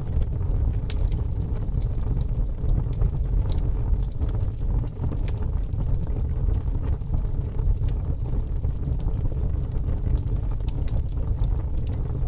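Fire burning with a steady low rumble and scattered, irregular crackles and pops.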